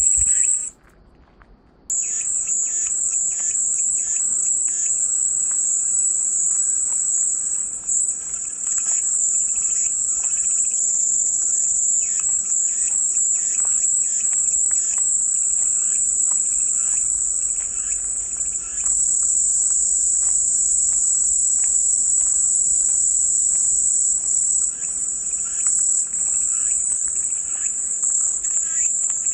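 Cicadas calling in a continuous, high-pitched drone that cuts out for about a second near the start.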